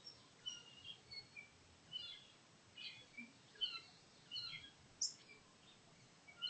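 Faint songbirds chirping: a loose, irregular series of short high chirps, with one higher note falling sharply about five seconds in.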